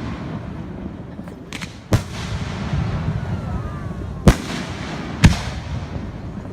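Fireworks shells bursting aloft: three loud sharp bangs, about two seconds, then one second apart, the middle one the loudest, with a fainter bang just before the first, over a continuous low rumble.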